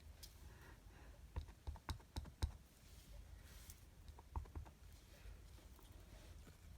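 Faint, light taps and clicks of hand stamping: a rubber stamp tapped onto an ink pad and pressed onto card, in two small clusters.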